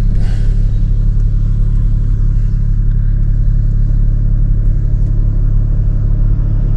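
Mahindra XUV300's engine idling steadily with a low, even hum, heard from inside the parked car.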